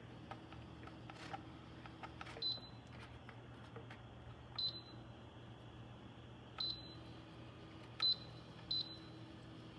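Five short, high electronic beeps a second or two apart, the fourth the loudest, with a few faint clicks over a low steady hum.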